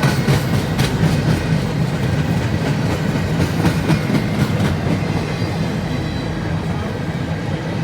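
Train rolling past with a steady rumble, its wheels clicking over the rail joints during the first five seconds or so.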